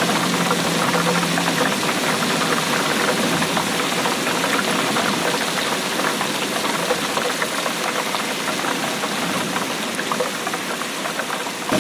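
Steady rainfall: a dense, even patter of many drops hitting a surface.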